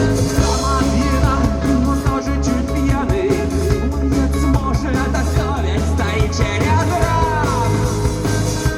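Rock band playing live, with a lead singer's voice over drums, bass and electric guitars.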